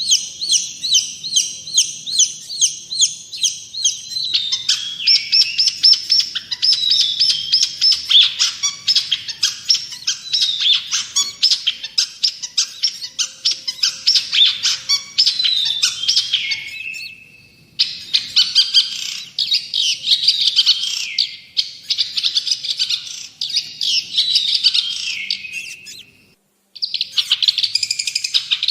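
Long-tailed shrike (cendet) singing loudly and continuously. It opens with a fast chattering phrase repeated about five times a second, then moves into a varied run of sharp chips, whistles and falling glides. The song breaks off twice briefly.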